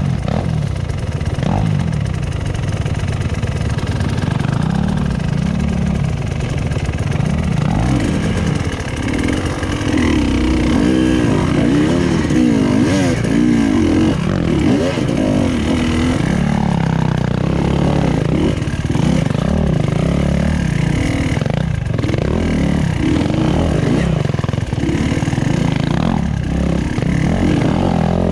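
Enduro motorcycle engine revving up and down over and over as the throttle is worked during off-road riding.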